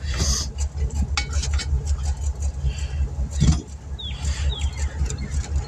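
Vehicle engine idling with a steady low rumble, with scattered metallic clicks and a louder knock about three and a half seconds in.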